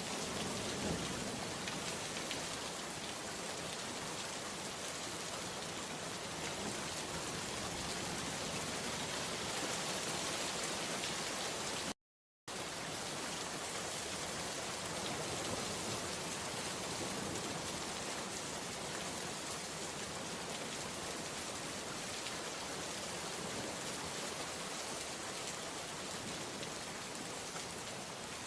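Steady rain falling, an even hiss of many drops with no thunder. About twelve seconds in, the sound drops out to total silence for about half a second, then the rain resumes.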